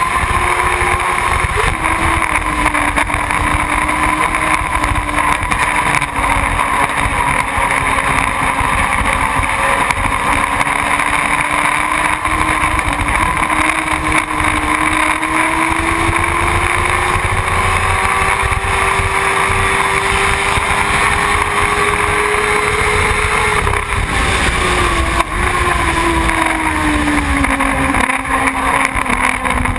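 Motorcycle engine running under way, with wind rumbling on the microphone. The engine note climbs slowly, then drops for a few seconds near the end before levelling off.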